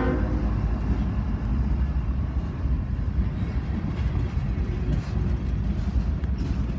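Freight train rolling past, a steady low rumble of wheels on rail with faint clicks. A horn note cuts off at the very start.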